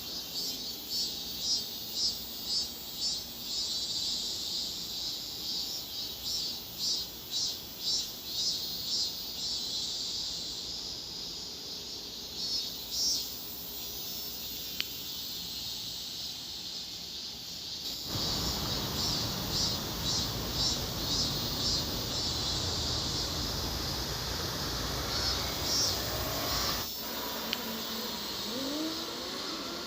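Cicadas singing in runs of rhythmic pulses, about two a second, that stop and start again. Low background noise rises partway through.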